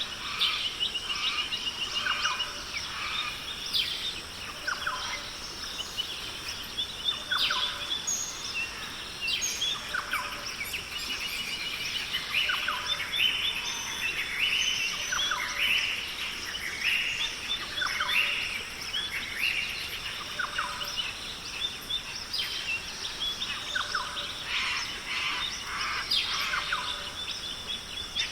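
Forest ambience: many birds calling in short, repeated phrases over a steady high insect drone.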